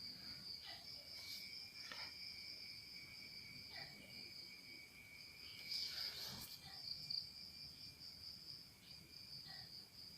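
Insects, crickets by the sound of the tags, chirring steadily in two high continuous tones. A few brief faint sounds cut in over it, the loudest about six seconds in.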